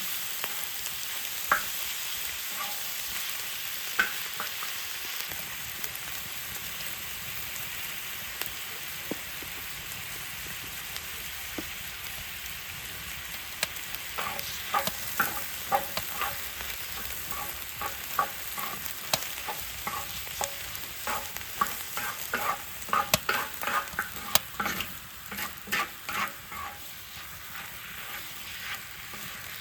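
Food sizzling on a cast-iron cauldron lid over a wood fire, with a steady hiss. From about halfway through, a utensil scrapes and knocks against the lid many times as the food is stirred.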